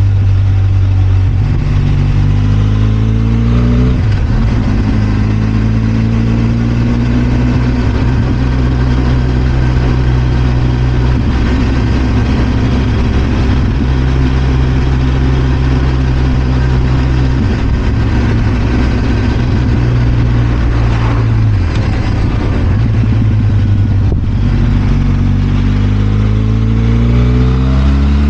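Benelli TRK 502 X's parallel-twin engine under way. The revs climb in the first few seconds, then hold a steady cruise, drop briefly about three-quarters of the way through, and climb again near the end.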